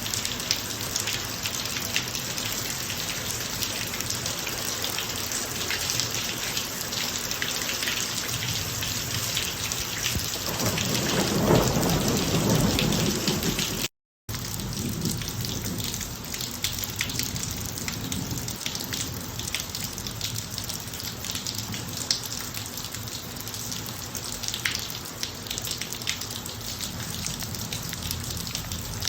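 Steady rain falling on a driveway, a dense patter of drops. About a third of the way in, a rumble of thunder swells for a few seconds. Just after the midpoint, the sound cuts out to silence for a fraction of a second.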